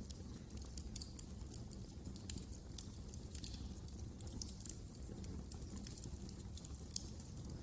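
Wood fire crackling in a fireplace: irregular sharp crackles and small pops over a low, steady rumble of the flames.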